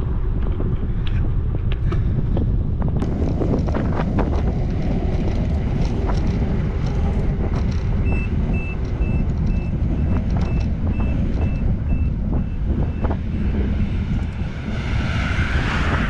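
Wind buffeting the microphone of a moving bicycle, with traffic rumble underneath. About halfway through, a vehicle's reversing alarm beeps steadily about twice a second for some five seconds.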